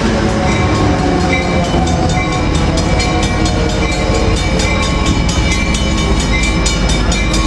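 Metrolink commuter train led by an EMD F59PH diesel locomotive passing close by at speed, its wheels clicking rapidly and evenly over the rail joints under a steady loud rumble.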